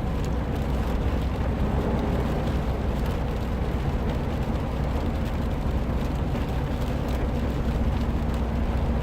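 Steady in-cabin noise of a 2015 Subaru WRX's turbocharged flat-four cruising at an even speed on a wet road: a low engine and road drone with tyre and rain hiss, not revving.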